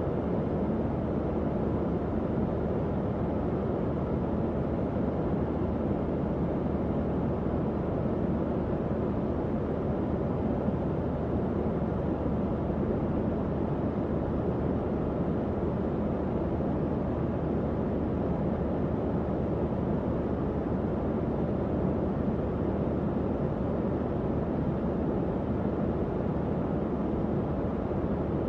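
Tower fan running steadily: a constant low airy whoosh with a faint low hum underneath.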